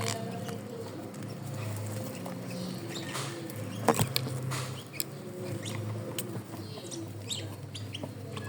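A bird calling with low, clucking notes and occasional chirps, among scattered small clicks, with one sharp knock about four seconds in.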